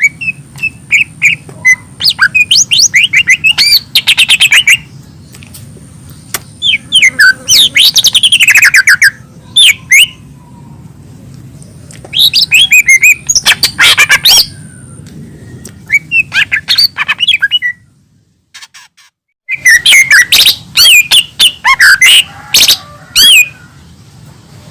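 Cucak ijo mini, a small green leafbird, singing vigorously in bursts of rapid sliding chirps and warbles, with short pauses between phrases. A low steady hum runs underneath, and the sound drops out briefly about three-quarters of the way through.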